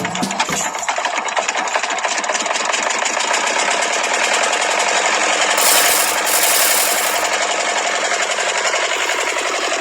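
A small electric motor running its gears with a steady, fast rattling buzz, briefly harsher about six seconds in.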